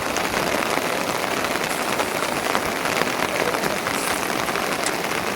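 Rain falling steadily: a dense, even patter of many drops.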